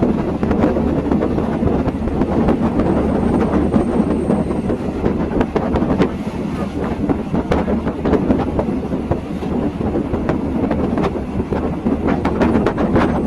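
Passenger train running on the rails, heard from aboard: a steady rumble of the wheels with many irregular clicks and knocks as they pass over rail joints.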